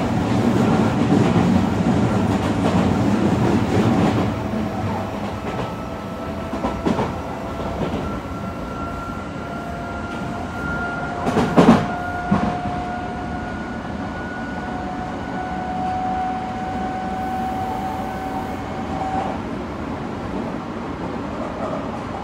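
Odakyu 3000 series electric train running, heard from inside the passenger car: a steady wheel-on-rail rumble that is heaviest in the first few seconds. From about five seconds in, a thin whine that is typical of the traction motors rises slowly in pitch, then fades out a few seconds before the end. A single sharp clunk comes about halfway through.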